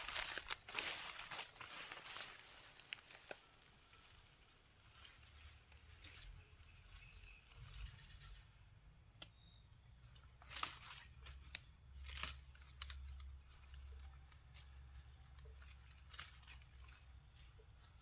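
Steady high-pitched chorus of insects, crickets or cicadas, with scattered rustles and a few sharp knocks around the middle, loudest a little past halfway.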